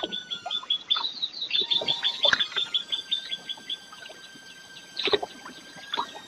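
Small birds chirping: a rapid run of short, high chirps, several a second, that stops a little past halfway, with a few brief knocks in between.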